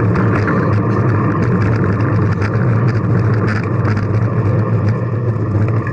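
Steady rushing wind and road noise from a moving bicycle ride, with a heavy low rumble on the microphone.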